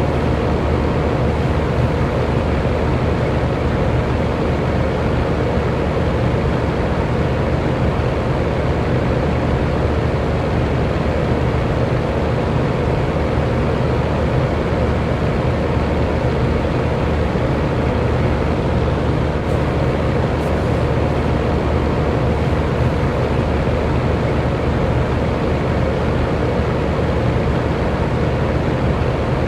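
Electric fan running steadily: a constant whooshing rush of moving air with a faint low hum from the motor.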